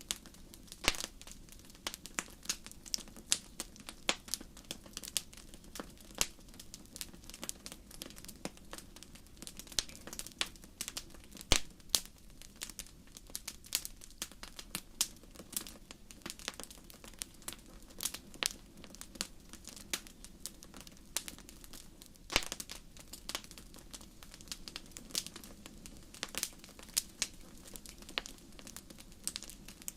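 Crackling fire: irregular sharp pops and snaps, some louder than others, over a low steady rumble.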